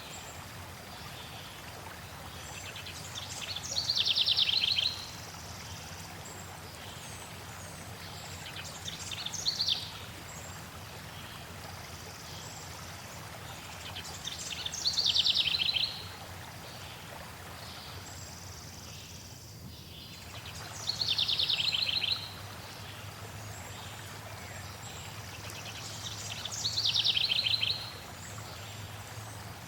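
Stream water flowing steadily, with a songbird repeating a short, high, descending trill about every five to six seconds, five times; the trills are louder than the water.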